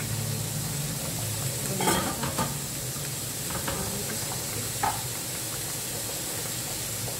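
Fried rice sizzling steadily in a wok on a gas stove, with a few sharp metallic clinks of cookware about two seconds in and again near five seconds.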